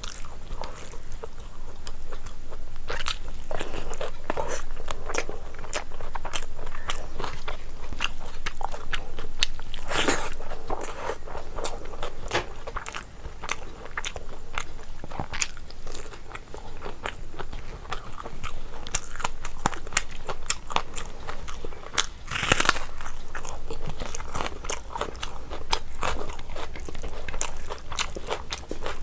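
A person eating biryani up close to the microphone: steady chewing with many small crunchy bites, and two louder crunches, one about ten seconds in and one near twenty-two seconds.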